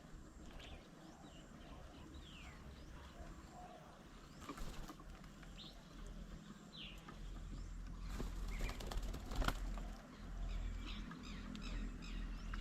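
Birds at a feeding table: scattered short, falling chirps and a few rustling flutters, louder in the second half, over a low steady rumble.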